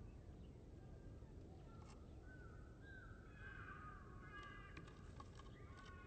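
Faint, distant bird calls: a short run of pitched calls with one longer, wavering call in the middle, over a quiet outdoor background. A few light taps come near the end.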